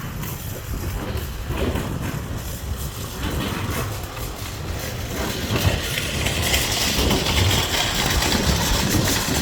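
A steady low engine rumble that grows louder about six seconds in, as a rushing hiss comes up over it.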